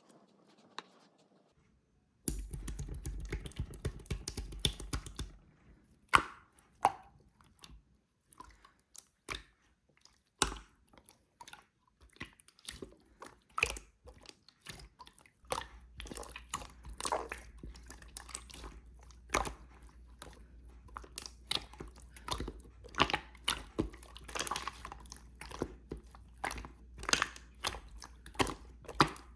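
Clear slime being squished and pressed by hand, making irregular wet clicks and pops; it starts about two seconds in.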